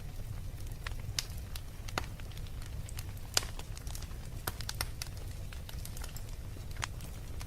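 Wood fire crackling in a fireplace: irregular sharp pops and snaps, the loudest about three and a half seconds in, over a steady low rumble.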